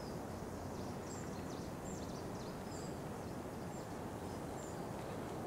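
Small birds giving short high chirps and quick falling calls, repeated every second or so, over a steady low background hiss.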